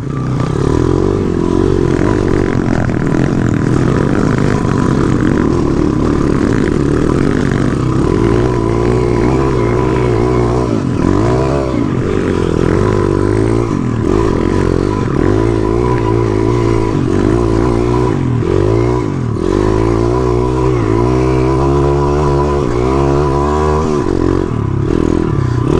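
Pit bike's small single-cylinder four-stroke engine running on a trail ride, its pitch rising and falling as the throttle is opened and closed, with a faint steady high tone underneath.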